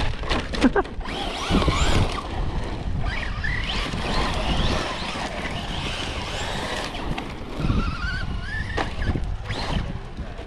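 RC truck motor whining, rising and falling in pitch as it is driven and throttled, with a few knocks near the start and wind rumbling on the microphone.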